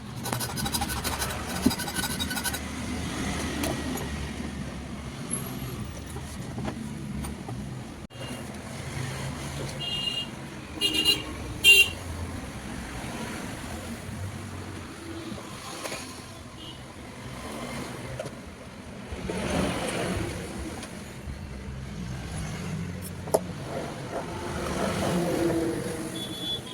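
Road traffic running past, with short vehicle horn blasts a little before halfway, over scattered clicks and scrapes of hand work.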